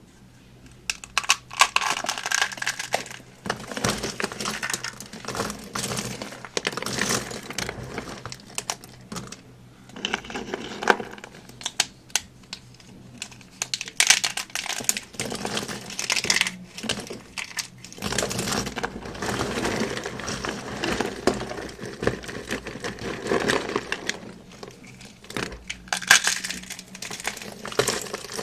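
Dry soap and starch being crushed and crumbled by hand: dense crunching and crackling in bursts a few seconds long, with brief pauses between them.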